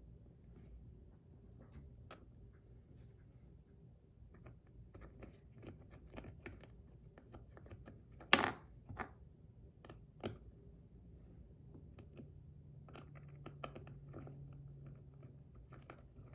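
Faint small clicks and taps of the metal fidget toy's parts being handled and fitted back together, with one sharper click about eight seconds in and another near ten seconds.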